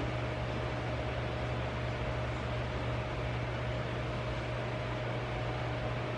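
Steady machine hum and hiss with a faint constant whine, unchanging throughout, like a fan or running appliance.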